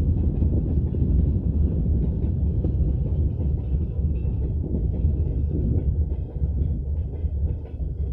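Freight train hauled by a VL80S electric locomotive rolling past: a steady low rumble of wheels on rails, easing slightly near the end.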